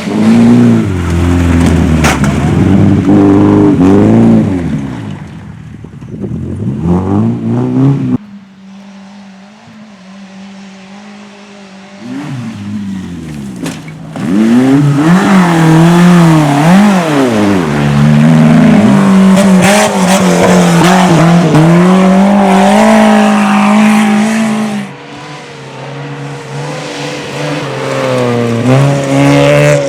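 Rally car engine driven hard, revving up and down through gear changes and corners, with some tyre squeal. It goes quieter for a few seconds about a third of the way in, then comes back loud and holds a high steady note before easing off near the end.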